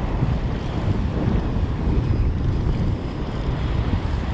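Wind buffeting the microphone in a steady low rumble, with surf breaking on the beach behind it.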